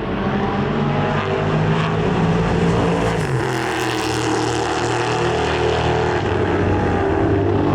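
Racing car engine running hard at high revs, its pitch falling about three seconds in as the car goes past.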